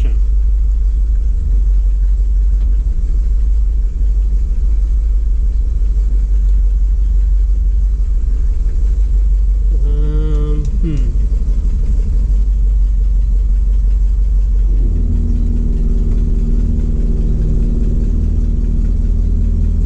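Ford F700 truck's 370 V8 gas engine running steadily with the PTO-driven hydraulic pump engaged. About three-quarters of the way through, the note changes and becomes fuller and steadier.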